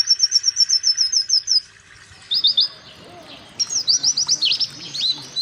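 White-eye (pleci) singing: a fast, even run of short high notes that stops about a second and a half in, then after a short pause three quick notes and a string of sharp whistles sweeping steeply downward.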